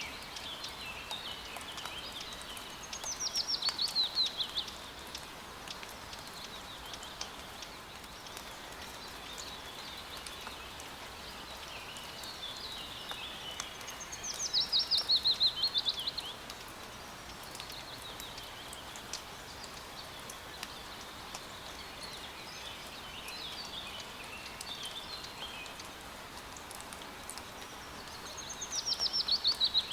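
Steady rain hiss with fine drop ticks, over which a songbird sings a fast, loud phrase of quickly descending notes three times, about every twelve seconds, with softer chirps from other birds in between.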